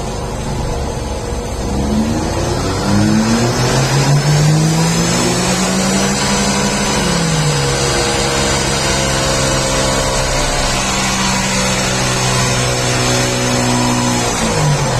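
Volkswagen Polo 1.4 four-cylinder petrol engine, converted to run on E85 ethanol, revving up. The revs climb in two steps over the first few seconds, ease back briefly, are held steady for several seconds, then drop away at the very end.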